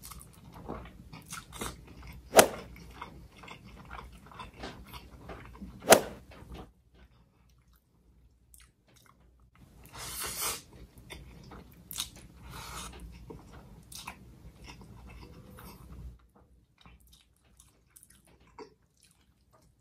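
Close-up chewing and mouth sounds of a person eating a mouthful of nasi ambeng, with two sharp loud clicks in the first six seconds. After a pause comes a short louder rustle-like noise, then more quiet chewing that dies away near the end.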